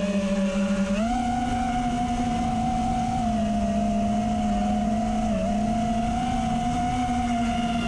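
Brushless motors of an FPV mini quadcopter (RDQ 2306 2450KV motors on 5-inch props) whining steadily. The pitch steps up about a second in and dips briefly twice later, following the throttle.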